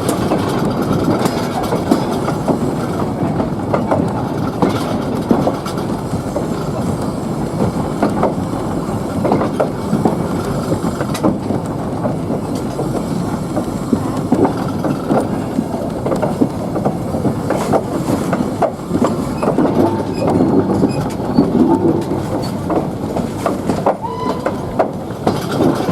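Train carriages rolling along the track: a steady rumble with irregular clicks and knocks from the wheels running over the rails.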